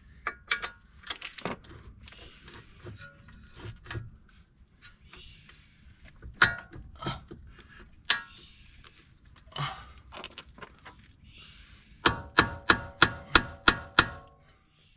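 Clanks, clicks and rattles of metal suspension parts being handled and fitted, then near the end a quick run of about a dozen ringing metal-on-metal blows, roughly five a second.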